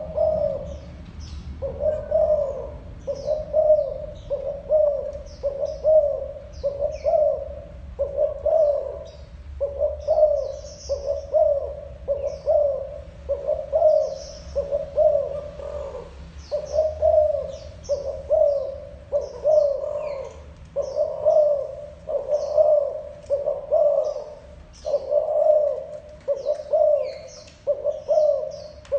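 Spotted dove giving its short repeated 'gù' coo, one low phrase about every second without a break. Faint high chirps from small birds sound over it.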